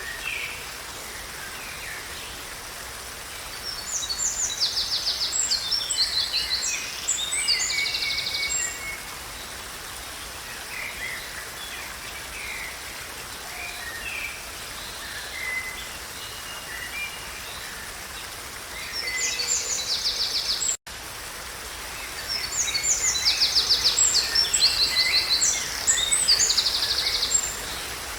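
A songbird singing bursts of rapid trilled phrases, three times, over a steady background hiss of natural ambience.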